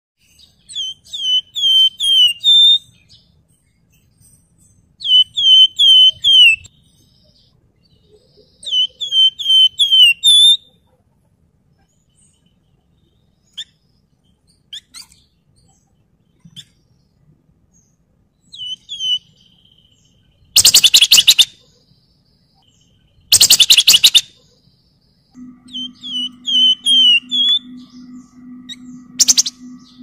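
Javan fulvetta (wergan Jawa) singing short phrases of four or five clear, falling whistled notes, repeated every few seconds. About two-thirds of the way through come two loud, rapid trills, the loudest sounds here. A steady low hum starts near the end.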